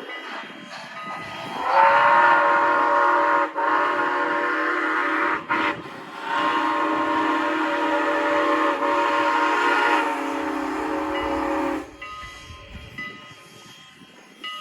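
A locomotive's multi-note chime sounding: two blasts of a little under two seconds each in quick succession, then one long blast held for about six seconds.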